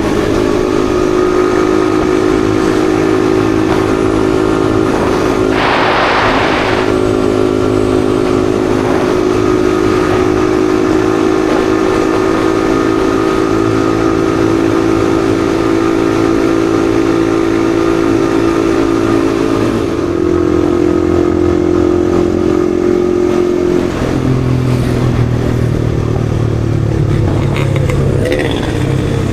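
Yamaha XSR155's single-cylinder engine running steadily under way, heard from the rider's seat. The engine note shifts about two-thirds of the way through and drops lower shortly after. A brief hiss sounds about six seconds in.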